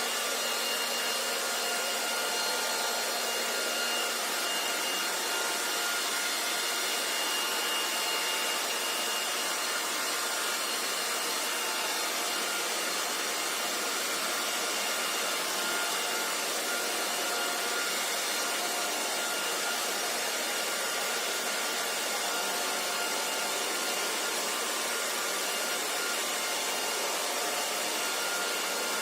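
Hair dryer running steadily: an even blowing hiss with a faint, steady motor whine in it.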